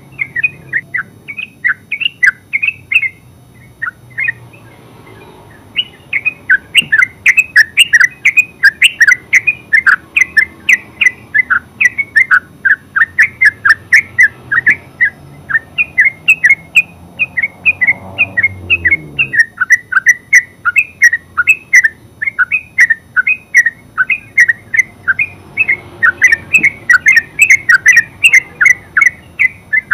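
Yellow-vented bulbul singing its fast ngeropel song: a continuous run of short bubbling notes, about three to four a second, with a brief break about four seconds in.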